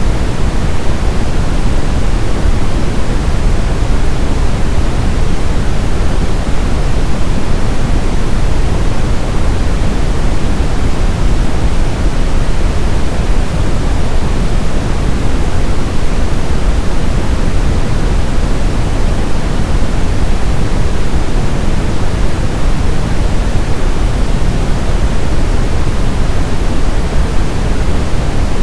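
Steady brown noise: a loud, unchanging rumbling hiss weighted toward the low end, with no tones or events.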